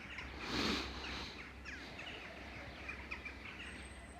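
Small birds chirping repeatedly, with a brief burst of hiss about half a second in and a steady low hum underneath.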